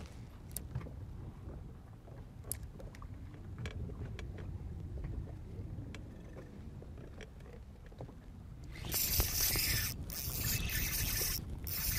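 Outdoor ambience on a fishing boat: a low rumble with scattered light knocks and clicks. About nine seconds in, a loud, steady hiss starts abruptly.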